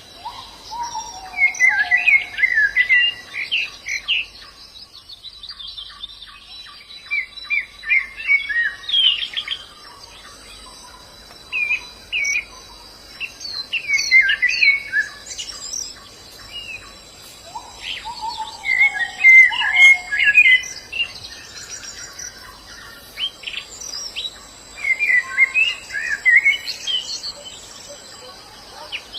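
White-eye (pleci) singing: five bouts of rapid, high twittering warble, each a couple of seconds long, with pauses of a few seconds between them. A lower whistled note that falls in pitch comes with the first and fourth bouts.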